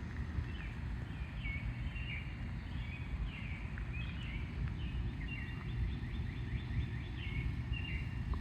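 Several birds chirping and calling in quick repeated phrases, over a steady low rumble of outdoor noise.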